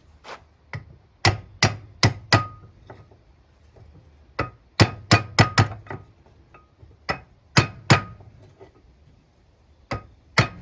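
Hammer blows on metal lathe parts, tapping in quick groups of three or four with pauses between, some strikes ringing briefly. The blows are bumping the bearing and washer back even on the lathe shaft.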